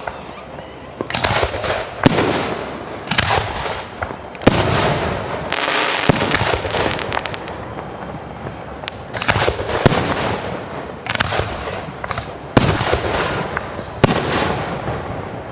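Aerial fireworks shells bursting in steady succession, about ten sharp bangs, each trailing off in echo. A stretch of dense crackling comes a little before the middle.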